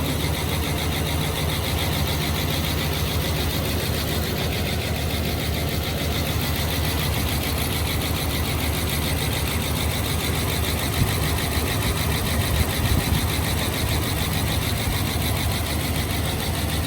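Dodge Ram's Hemi V8 idling steadily, with a fast, even ticking over the engine note. It is the first run after a failed MDS lifter was dealt with, and the engine is not yet up to temperature or fully oiled.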